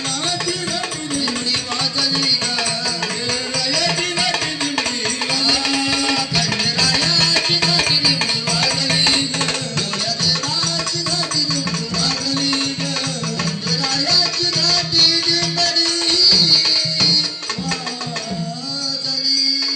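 Marathi devotional folk song for Khandoba: a melody winds over a steady drone, with continuous jingling, rattling percussion, thinning out near the end.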